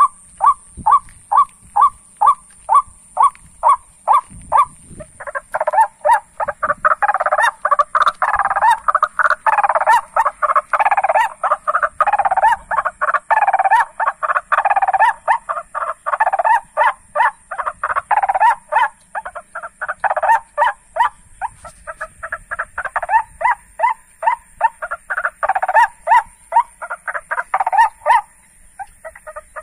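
Ruak-ruak (white-breasted waterhen) calls: short, loud croaking notes repeated about three times a second, thickening after about five seconds into a dense overlapping chorus that thins out again near the end. A steady high whine runs behind them.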